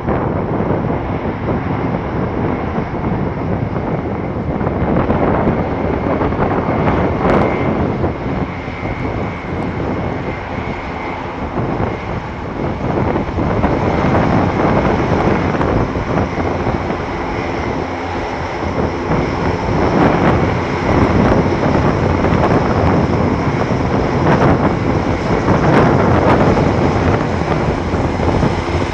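Airbus A400M Atlas's four TP400 turboprop engines running loud and close, a dense roar with a steady high whine over it, swelling louder about halfway through and again in the last third.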